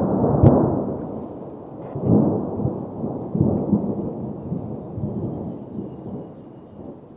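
Rolling thunder: a sudden loud peal in the first second, then further rumbling waves that fade out over several seconds.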